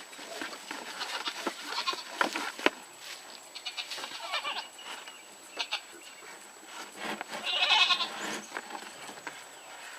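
Animal calls: a few short, high calls about four seconds in and again near eight seconds, among scattered clicks and knocks of handling.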